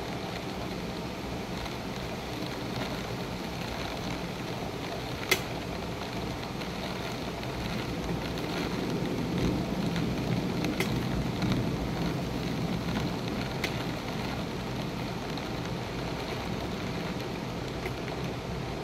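Steady rain in a thunderstorm, with a low rumble that swells and fades again in the middle. One sharp tick about five seconds in, and a couple of fainter ones later.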